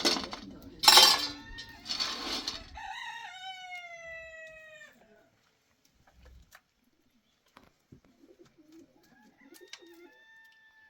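A rooster crowing once: a harsh opening that runs into a long held note, falling slowly in pitch and ending about five seconds in. Fainter bird calls follow near the end.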